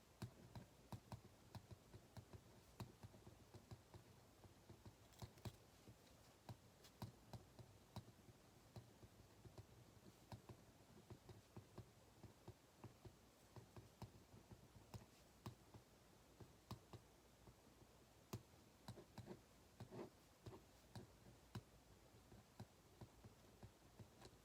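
Faint, irregular small clicks and taps at a desk, several a second, over quiet room tone.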